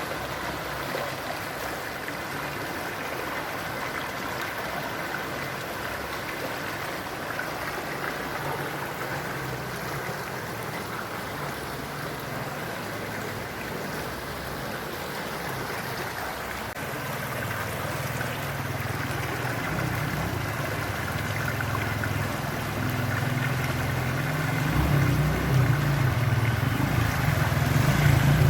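Floodwater rushing steadily along a road in heavy rain. Past the halfway point a vehicle engine comes in low and grows steadily louder toward the end, as if approaching.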